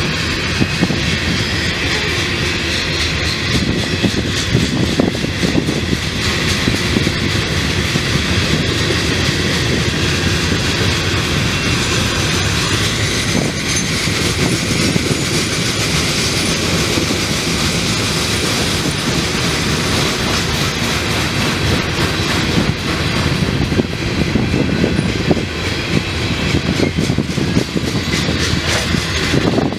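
Freight train of hopper cars rolling steadily past: continuous noise of steel wheels on rail, with frequent small clicks and clanks.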